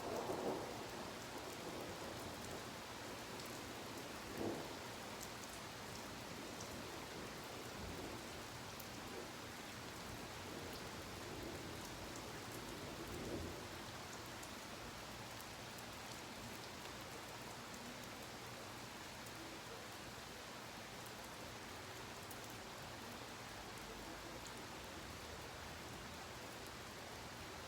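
Steady rain falling in a rainstorm, with a roll of thunder dying away in the first second. Two brief thumps come about four and thirteen seconds in.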